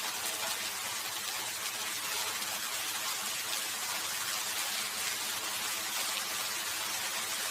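Steady rain falling: an even hiss that holds constant throughout, with faint fine patter of drops.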